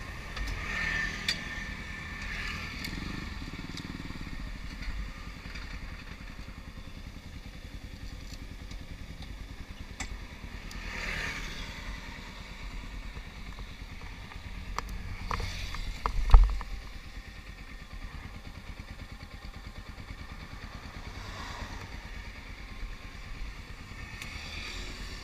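Motorcycle engine idling steadily at a standstill, with a few sharp clicks and one loud knock about sixteen seconds in.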